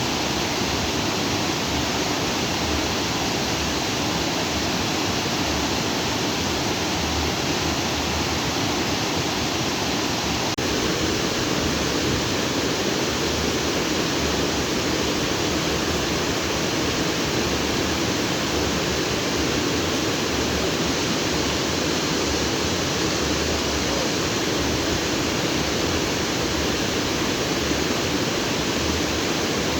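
Stream of water running over and between rocks, a steady rushing without breaks.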